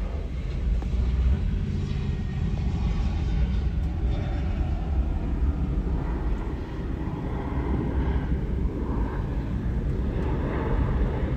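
Airplane engines making a steady, low, noisy rumble.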